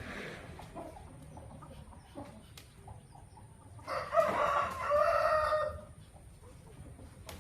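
A rooster crowing once, a single call of about two seconds starting about four seconds in, with fainter chicken clucks before it.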